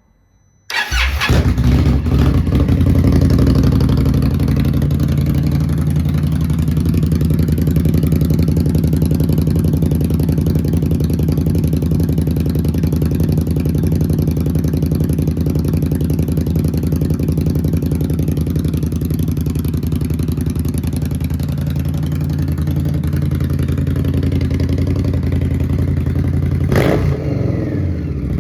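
A 2017 Indian Scout's V-twin, fitted with short aftermarket shorty mufflers, starts about a second in and settles into a steady, loud idle. Near the end there is one quick blip of the throttle.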